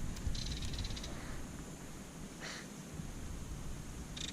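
Fishing reel clicking rapidly in two short runs, about a second each, one near the start and one near the end, with a brief rustle between, over a low wind rumble on the microphone.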